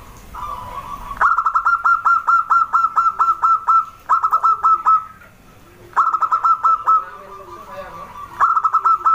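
Zebra dove (perkutut) singing: bouts of rapid, clipped cooing notes in quick even runs, four bouts with short pauses between.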